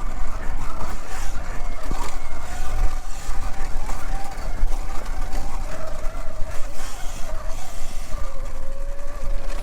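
Segway X160 electric dirt bike's motor whining while riding, its pitch wavering with speed and dipping a little near the end, over a heavy low rumble of wind buffeting the microphone.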